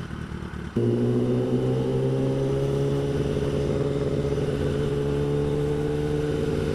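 Kawasaki ZX-10R sport bike's inline-four engine running under way. About a second in its note comes in suddenly and louder, rises a little in pitch over the next couple of seconds, then holds steady at a constant speed.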